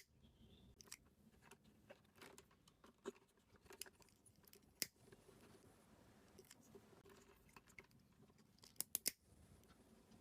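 Faint handling sounds of thin thermostat wires being joined by hand: scattered small clicks and light scrapes, with a quick run of three sharper clicks about nine seconds in.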